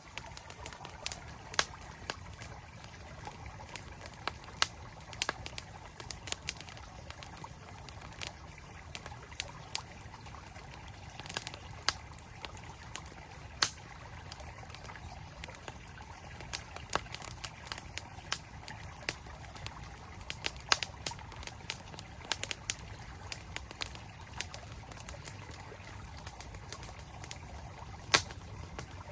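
Campfire crackling, with sharp irregular pops and snaps, over the steady rush of a flowing mountain stream.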